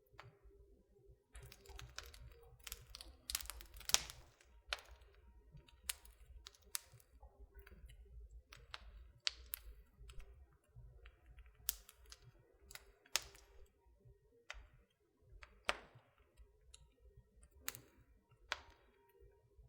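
Wood fire crackling in a fireplace: irregular sharp pops and snaps over a faint low rumble, a quick run of crackles about two to four seconds in, then scattered single pops.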